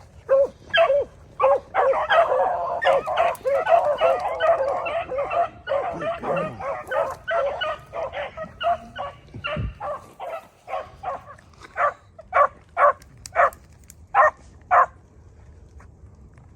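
Pack of beagles baying on a rabbit's trail while giving chase. Several hounds overlap for a few seconds, then single barks come about twice a second and stop shortly before the end.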